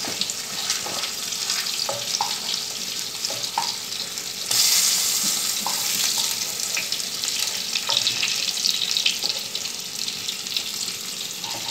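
Spiny gourd (kakrol) slices frying in mustard oil in a pan, sizzling steadily, with light scrapes and taps of a wooden spatula turning the pieces and lifting them out. The sizzle gets louder about four and a half seconds in.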